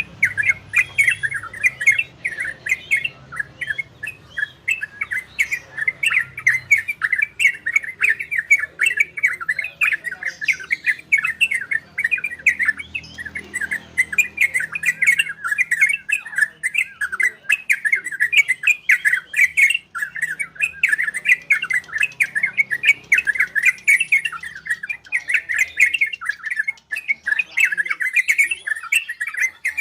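Trocok bulbul singing a long, unbroken run of quick, clear chirped notes in rapid succession, the rolling 'ropel' style of song.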